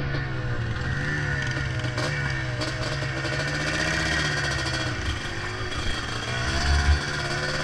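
Yamaha Blaster's two-stroke single-cylinder engine running as the quad is ridden, its engine speed rising and falling. A low thump comes near the end.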